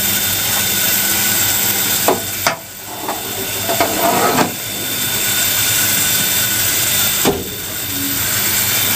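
Steady loud steam hiss in the cab of the Ab-class steam locomotive Ab608, broken by a few sharp knocks and a short burst of rushing noise near the middle.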